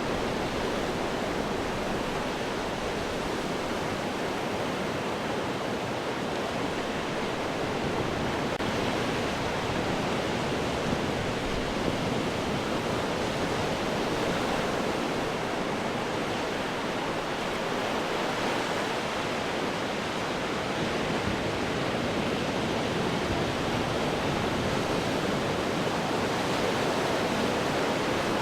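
Ocean surf washing over rocks: a steady rush of water, with no single crash standing out.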